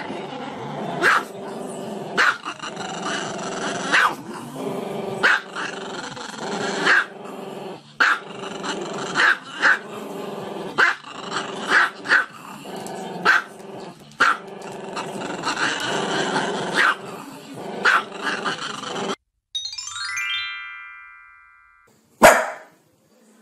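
Small long-haired black-and-tan dog barking sharply, about once a second, over music. Near the end a brief electronic chime plays, then a terrier gives one loud bark.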